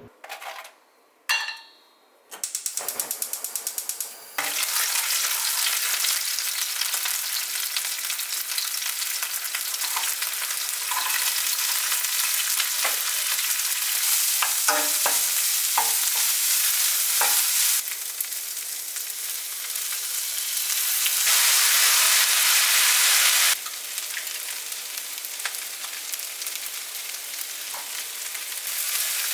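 Food sizzling as it fries in a pan, with scattered knocks of stirring. The steady hiss comes in about four seconds in, after a few short clicks, and gets louder and softer a few times.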